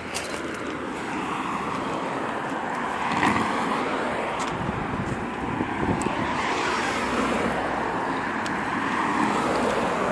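Datsun 240Z's turbocharged straight-six (a 1983 280ZX turbo engine on a blow-through carburetor) driving off, its engine and exhaust sound swelling through the middle and staying up near the end.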